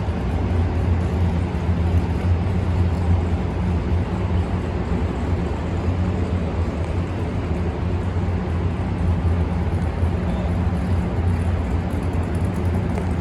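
Steady background din of a busy car-show venue: an even low hum under a wash of general noise, with no distinct events.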